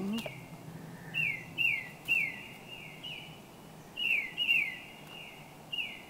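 A small bird chirping over and over: short notes that each slide down in pitch, often coming in quick pairs, about ten in all.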